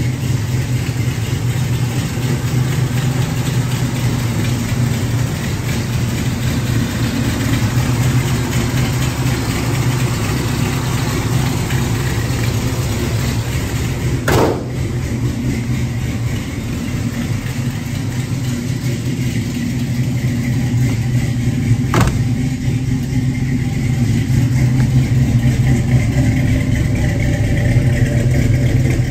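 A 1974 Plymouth Duster's 360 small-block V8, fitted with headers and a Holley carburetor, idling steadily. Two brief sharp clicks come through, about halfway in and again some seconds later, and the idle grows a little louder near the end.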